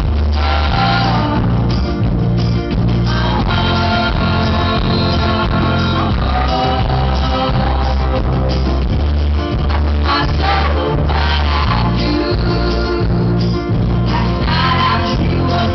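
Live band music with sisters' singing over a heavy, booming bass line, in an audience recording with muddy, overloaded low end.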